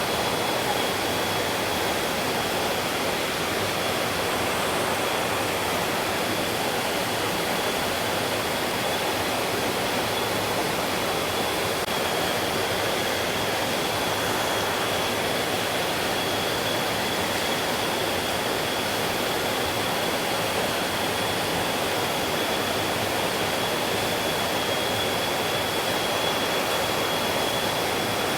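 Mountain stream flowing steadily, an even rush of water, with a thin steady high tone running underneath.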